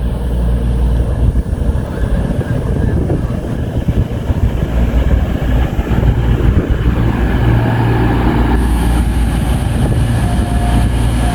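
Freight train passing through the station at speed without stopping, its wagons running over the rails with a loud continuous rumble. A thin steady tone joins in near the end.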